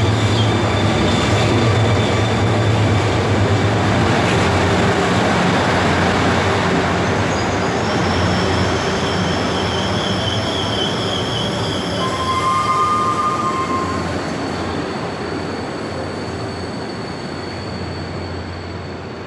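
A diesel-hauled passenger train arriving and rolling slowly past: the locomotive's diesel engine hum and the rumble of the carriages, with high-pitched squealing as it brakes about halfway through. The sound grows gradually quieter as the train slows.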